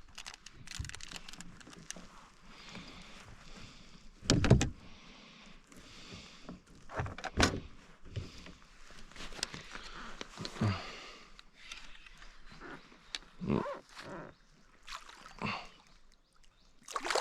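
Irregular knocks and thumps against a kayak, the loudest about four seconds in, as a small caught trout is handled aboard before being unhooked.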